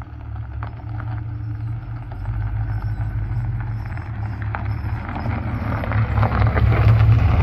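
LS V8 in a 1973 Buick Electra running low and steady as the car rolls slowly closer, getting louder, with tyres crackling over gravel.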